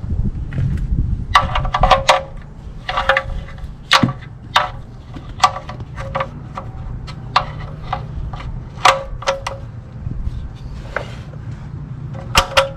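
Irregular metallic clinks and clanks of hand tools being handled and set down, each with a short ring, over a steady low hum.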